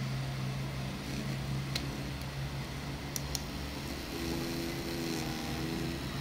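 Tiny 7 mm and 10 mm vibration motors buzzing steadily. A low buzz fades about a second in, and a higher-pitched buzz starts about four seconds in. A few light ticks along the way.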